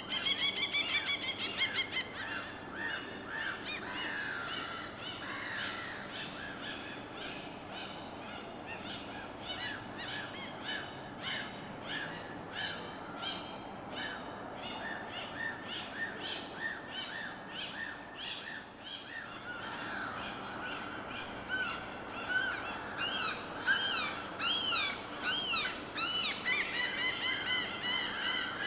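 Many birds calling and chirping together in a continuous chorus of short repeated calls, densest in the first couple of seconds and again with swooping rising-and-falling calls near the end, over a steady hush of water.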